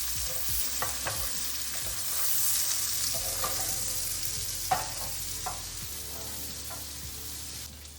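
Sliced onions sizzling as they fry in oil in a pan, a steady hiss with a few short sharp clicks.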